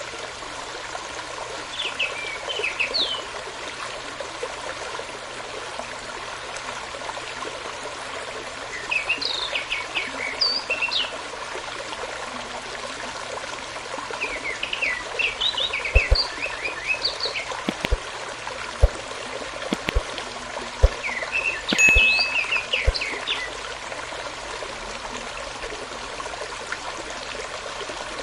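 Small stream running steadily, with four short bursts of quick, high chirping birdsong, about every five to six seconds, and a few soft clicks in the second half.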